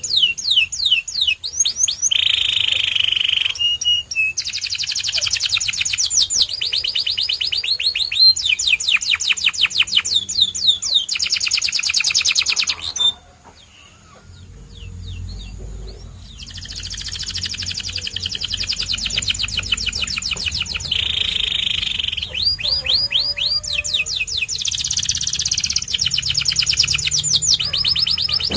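White canary singing: fast trills of rapidly repeated notes, some sweeping up in pitch, in phrases a few seconds long, with a pause of about three seconds near the middle.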